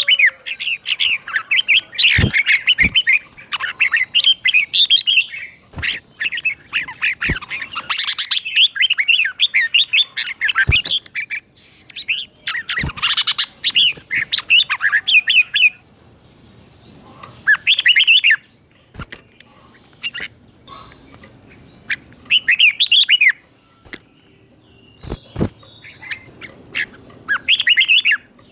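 Red-whiskered bulbul singing bursts of quick, bubbly whistled notes, with its song phrases doubled in pairs. The song runs almost without a break for the first half, then comes in short phrases every few seconds, with scattered sharp clicks in between.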